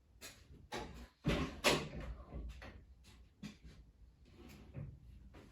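A series of irregular knocks and clunks, as of things being handled or moved, the two loudest about a second and a half in; no engine is running.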